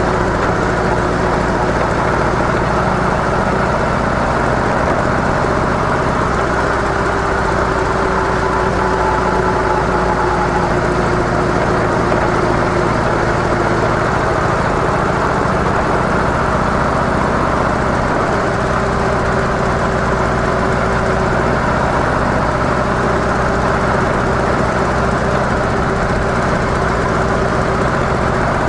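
Harley-Davidson CVO Softail Deluxe's air-cooled V-twin running steadily through its stock mufflers, its note holding even with no revving or gear changes.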